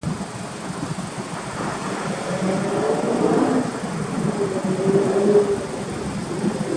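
Mitsubishi Lancer Evolution X's turbocharged 2.0-litre four-cylinder engine running through an aftermarket Tomei titanium exhaust, its pitch shifting a little and loudest about five seconds in.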